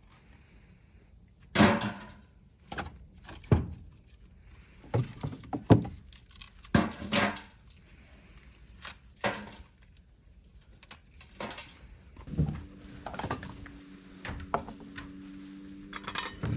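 Pieces of firewood knocking together: an irregular series of wooden knocks and thunks, roughly one a second.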